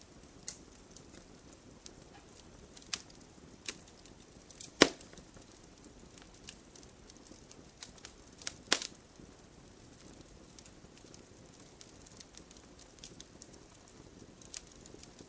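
Wood fire crackling: scattered sharp pops and ticks over a soft low hiss, with two louder pops about five and nine seconds in.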